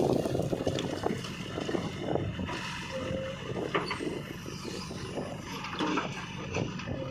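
Heavy diesel engine of farm or earthmoving machinery running steadily, with a few faint clicks and knocks over it.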